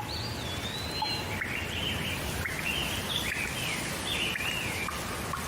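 Steady rain falling, with a bird singing a string of short sliding whistled phrases over it.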